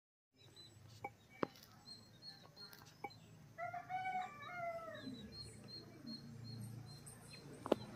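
A bird calls once about halfway through, in two drawn-out notes, over a faint high chirp repeated about twice a second and a few sharp clicks.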